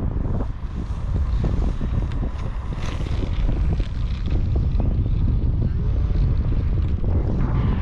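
Wind buffeting the microphone: a steady, rough low rumble that covers everything else.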